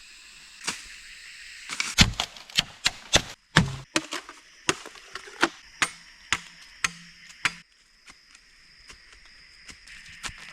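A quick series of sharp chopping strikes, about three a second, that stops about three-quarters of the way through. Under it runs a steady high-pitched drone of jungle insects.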